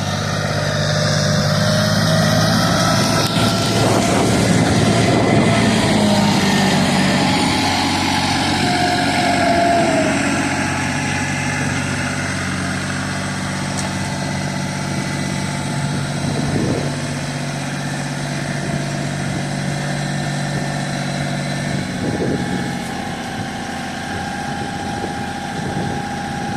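Tractor engine running steadily under working load, louder for several seconds in the first half, with a faint whine that rises and then falls.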